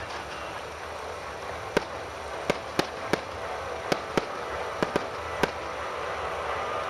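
Fireworks shells bursting: about nine sharp bangs at irregular intervals, several in quick pairs, over a steady background hiss.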